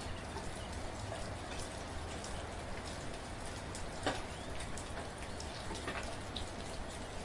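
Steady soft rain: an even hiss with many scattered individual drops ticking on a surface, one louder drop about four seconds in.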